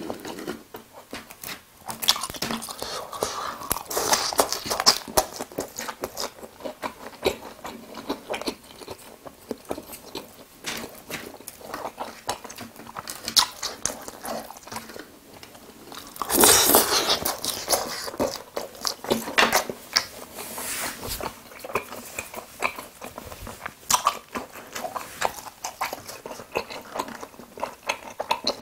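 Close-miked chewing and crunching of battered fried pork (tangsuyuk), with a run of irregular crisp clicks and wet mouth sounds and a louder stretch a little past halfway.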